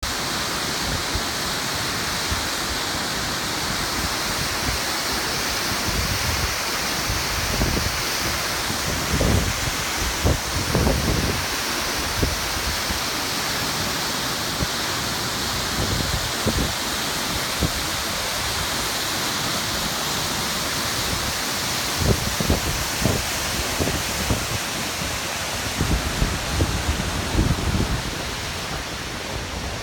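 Large waterfall pouring steadily: a dense, unbroken rush of falling water, with occasional low rumbles and thumps mostly in the middle and near the end.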